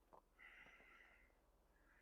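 Near silence, with one faint crunch of a boot stepping in cold packed snow.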